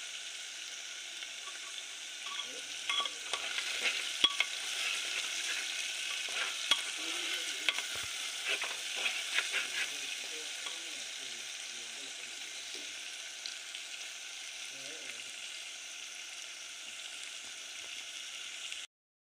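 Lentils, tomato and spices sizzling in oil in a pot, with a steady hiss, while a steel ladle stirs them, scraping and clinking against the pot between about three and ten seconds in. The sound cuts out abruptly just before the end.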